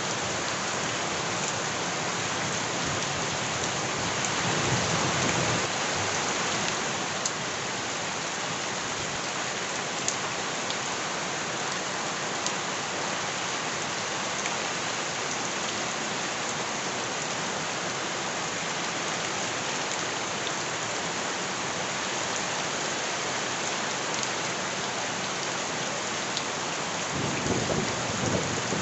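Heavy rain falling steadily on surfaces, a dense unbroken hiss with a few sharp drip ticks. A low rumbling swell rises about four seconds in and again near the end.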